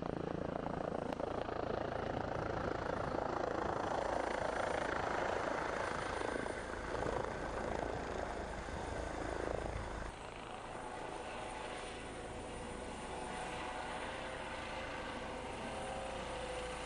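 Helicopter running, a steady rushing noise of engine and rotor; the sound drops and changes about ten seconds in.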